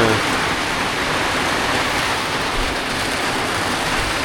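Steady heavy rain falling, an even hiss with no break.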